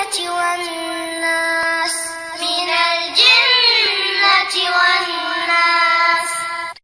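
A child's voice reciting Quran in a slow melodic chant, holding long notes with gliding ornaments between them. The voice breaks off abruptly at the end.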